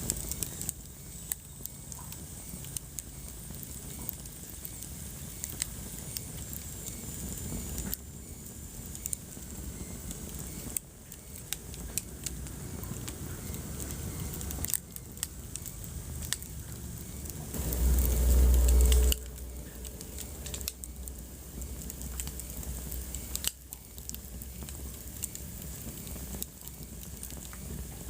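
Wood fire in a fireplace crackling steadily, with frequent sharp pops and snaps. About two-thirds of the way through, a brief low rumble lasting about a second stands out as the loudest moment.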